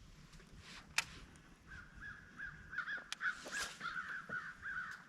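Birds calling: from a couple of seconds in, a rapid run of short, repeated calls, several a second, with a couple of sharp clicks mixed in.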